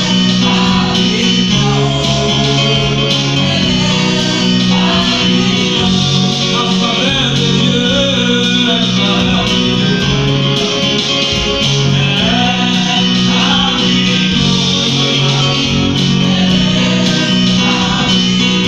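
Worship music: singing over guitar, a sustained bass line and a steady beat.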